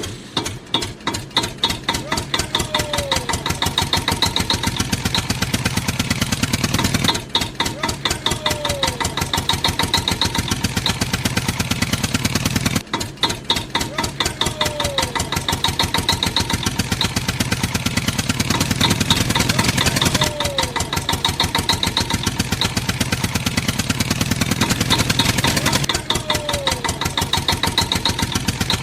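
Tractor engine running with a rapid, steady putter. The same stretch, with a short falling tone in it, repeats about every six to seven seconds, as a looped sound effect does.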